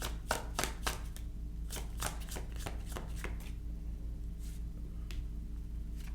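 Tarot cards being shuffled and handled: a quick run of crisp card snaps, a short pause, a second run, then a few scattered clicks as the shuffling slows.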